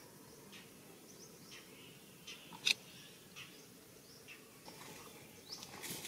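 Birds chirping over faint steady woodland background noise: scattered short calls, with one louder, sharper call about two and a half seconds in and a few quick rising chirps near the end.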